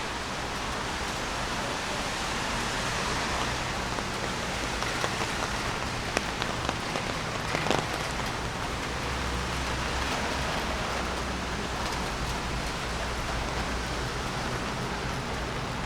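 Steady rain falling on a city street, with a few sharper drop hits about five to eight seconds in and a low rumble a few seconds later.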